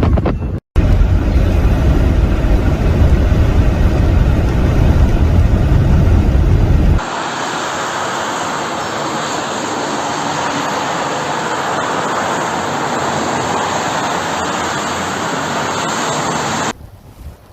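Strong storm wind buffeting the microphone with a deep rumble. After an abrupt cut it gives way to a steady, even rushing hiss of wind.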